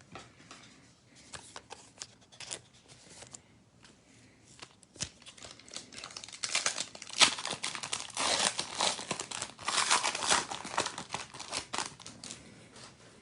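Trading card pack wrapper being torn open and crinkled: scattered crackles at first, then dense crinkling from about halfway through that is louder than the rest.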